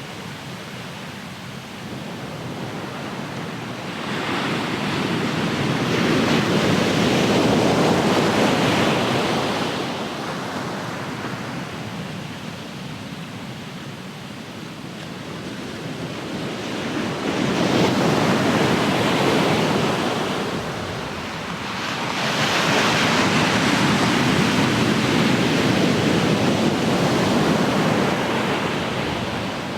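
Ocean surf: waves breaking and washing up the shore in a steady rush that swells loud three times and eases back between.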